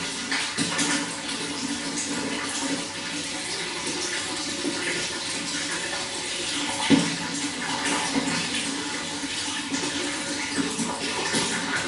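Running water flowing and splashing steadily, with one sharper splash about seven seconds in.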